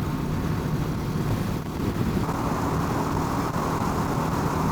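Rieju motorcycle engine running at a steady cruising speed, with wind and road noise over it; about two seconds in the noise grows brighter and louder.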